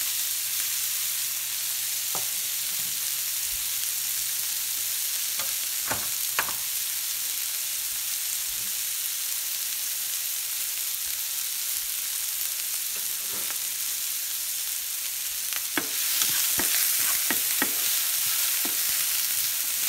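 Chopped shallots and green chilies sizzling in hot coconut oil in a pan: a steady hiss with a few scattered pops. About three-quarters of the way through the sizzle gets louder and a wooden spatula scrapes and taps against the pan as they are stirred.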